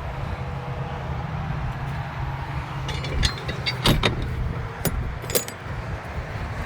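Keys jingling in a few short clicks over a steady low rumble.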